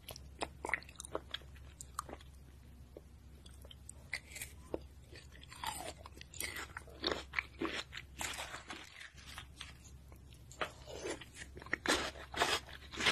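Close-miked chewing and crunching of melon shaved ice, with wet mouth clicks. The crunching comes in bursts that grow busier after about five seconds.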